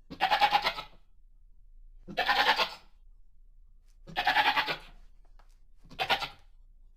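Goat bleating: four separate bleats about two seconds apart, the last one shorter.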